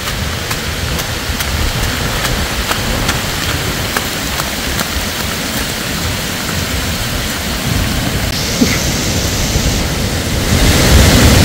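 Heavy, wind-driven storm rain pouring down, with gusts rumbling on the microphone and scattered drops ticking. The rain and wind swell noticeably louder near the end.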